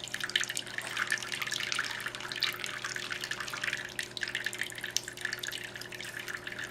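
Homemade tabletop water fountain running: water trickling and dripping continuously from the stacked lids and their drilled holes into the bowl, with many small irregular splashes over a faint steady low hum.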